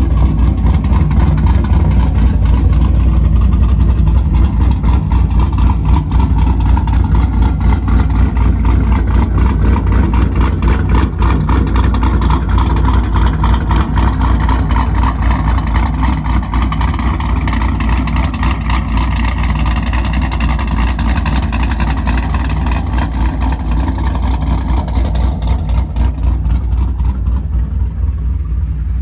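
Pontiac G8's 376-cubic-inch stroker V8 idling, its exhaust loud and steady.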